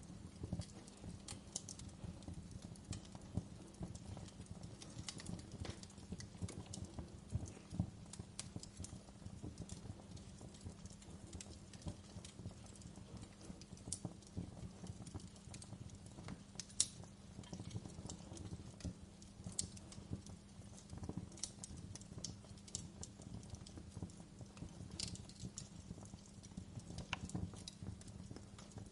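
Campfire burning with a steady low crackle and frequent irregular sharp pops of the wood, one louder pop about halfway through.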